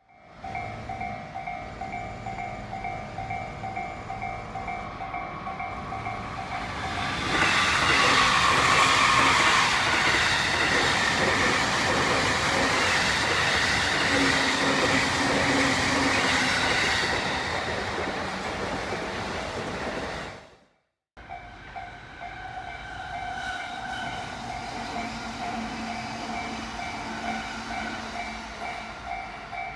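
Electric train passing through a level crossing, loudest for about ten seconds in the middle, while the crossing's alarm bell rings its steady, repeating electronic clang. After a brief cut about two-thirds of the way in, the crossing alarm rings on with quieter train noise.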